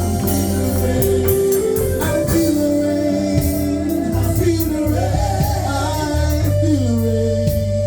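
Gospel worship music: a band with bass and guitar, and a voice singing a melody that bends and slides over steady held chords.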